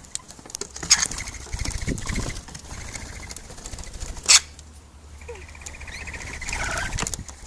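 Lorikeets at close range: wing flaps and many small clicks and scratches, with two stretches of soft buzzy chattering calls and one loud brief flurry about four seconds in.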